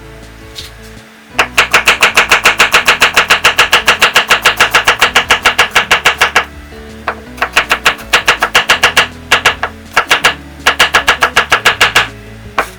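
Rapid knife chopping on a wooden cutting board: a long fast run of about eight or nine even strokes a second, then three shorter runs, over background music.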